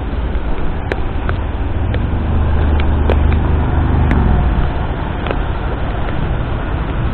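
Steady road-traffic noise: a low rumble of vehicle engines and tyres on the road. About four seconds in, one engine's note drops in pitch, and a few sharp ticks come and go.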